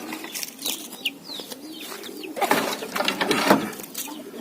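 Young chicks peeping in short, falling high chirps, with a louder stretch of rustling noise in the middle.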